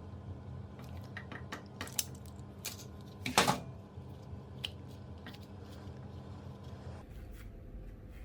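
Light clicks and clatter of small hard objects being handled, over a steady hum. A louder scrape comes about three and a half seconds in, and the hum changes abruptly near the end.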